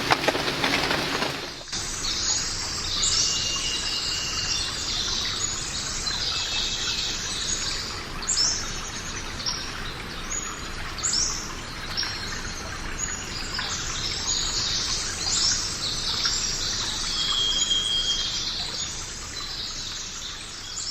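A loud clattering noise stops abruptly about two seconds in. After it, many birds chirp and twitter, with a few short, clear whistles among the chirps.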